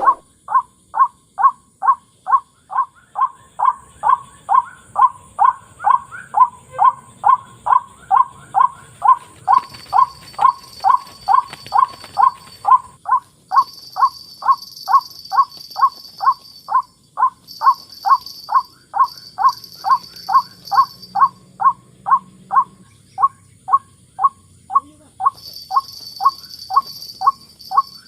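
White-breasted waterhen (ruak-ruak) call, used as a trapping lure: a swooping note repeated steadily about twice a second. Behind it are a steady high insect hiss and, at times, higher chirping.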